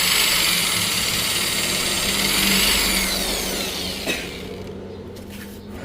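Electric power tool motor running at high speed, then winding down with a falling whine, followed by a sharp click about four seconds in.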